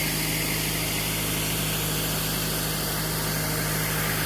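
Steady road and engine noise inside a moving car's cabin, an even rumble and hiss with a low hum.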